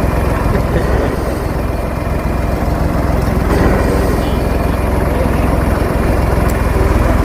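A vehicle engine idling steadily, with faint voices in the background.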